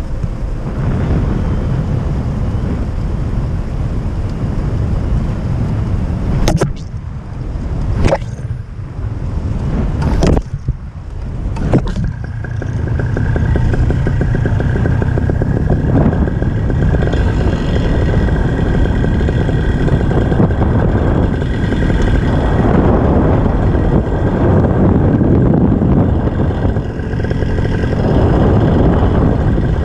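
Wind rushing over the microphone in gliding flight with the engine off, a loud, steady low rumble. A few sharp knocks come between about six and twelve seconds in, and after that a thin steady whine runs under the wind.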